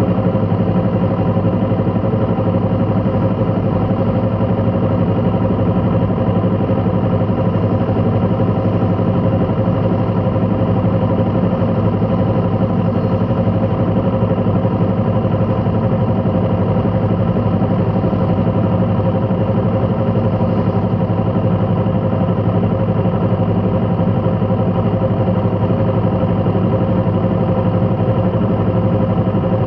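A vehicle engine idling steadily, a constant hum that neither rises nor falls.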